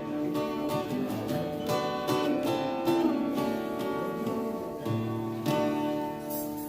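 Acoustic guitar strumming slow chords in a song's instrumental ending, with a last chord struck about five seconds in and left to ring.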